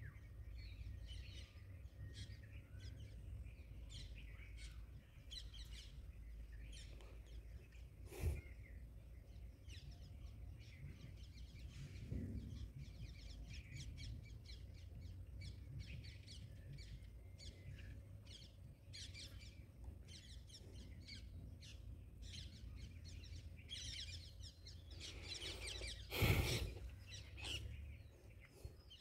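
Small birds chirping and calling on and off over a steady low rumble. A sharp knock about eight seconds in and a louder thump near the end.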